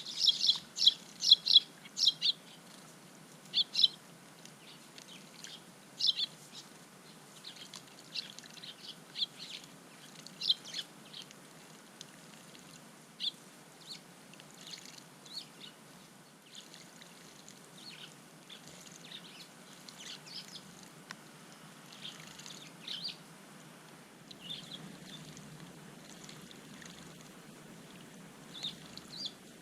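Eurasian tree sparrows chirping: a quick, loud run of short chirps in the first couple of seconds, then scattered single chirps.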